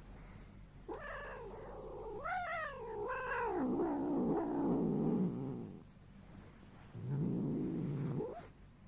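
Dragon Li (Chinese tabby) cat giving a long, wavering yowl that sinks lower as it drags on, then a second, shorter, lower call about seven seconds in that ends on a rising note.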